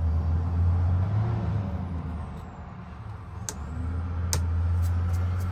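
Steady low rumble that dips in the middle, with two sharp clicks near the middle from tools working at a Ford F-150 ignition lock.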